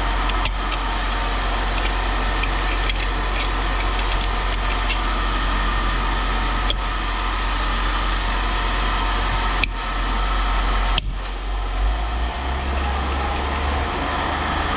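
A steady running motor or engine with a low hum, broken by a few sharp clicks of tools on metal as a brass backflow preventer is worked apart.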